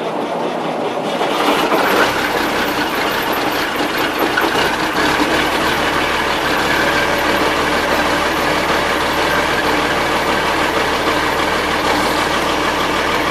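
Diesel engine running just after a cold start, rising over the first couple of seconds and then settling into a steady, knocking idle.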